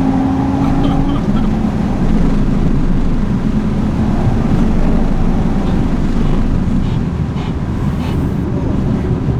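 Audi RS3 8V five-cylinder turbo engine heard from inside the cabin of a Golf R at motorway speed, through a straight 3-inch exhaust with the resonators removed, with a steady low drone under road and wind noise. The engine note steps down in pitch about a second in.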